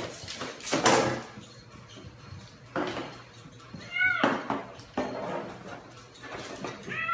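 A pet animal gives a short bending cry about four seconds in and starts another near the end, with several knocks and bumps in the first few seconds.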